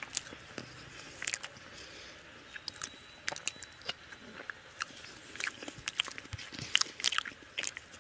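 A man eating a mouthful of rice and chicken curry by hand, chewing with many short mouth clicks and smacks. The clicks come thickest in the second half.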